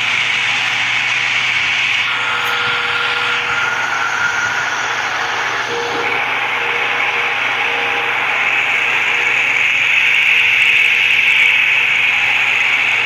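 Tron wall fan running: a steady rush of air with a faint motor hum, swelling a little about ten seconds in.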